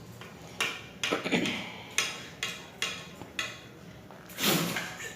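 Eating sounds: irregular wet clicks and smacks of chewing, with a longer, louder noisy burst about four and a half seconds in.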